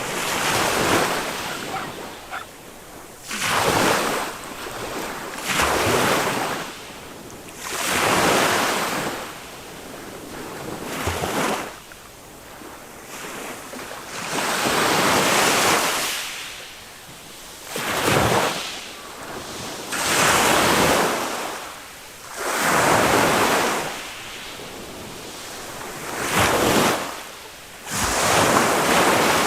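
Small waves of a calm Mediterranean sea breaking on a sand beach, one wash after another roughly every two seconds, each swelling and falling away.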